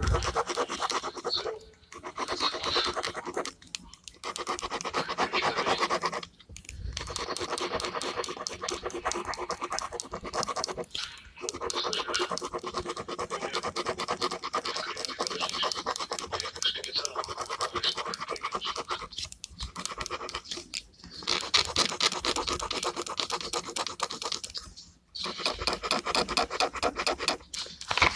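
Gel pen scratching on paper in rapid back-and-forth colouring strokes, in long runs broken by short pauses.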